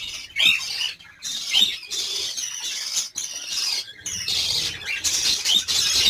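Lovebirds giving repeated high-pitched squawks and chirps.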